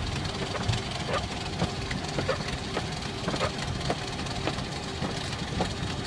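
Boeing 737-500 flight-deck noise on the ground: a steady low rumble of the engines at idle thrust with a faint steady hum, broken by frequent irregular short clicks and rattles.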